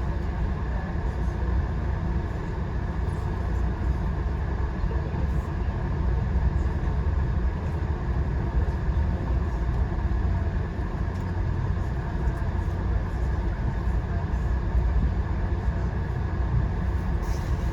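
VIA Rail passenger train in motion, heard from inside the coach: a steady low running noise of the wheels on the rails, even throughout, with a few faint light clicks.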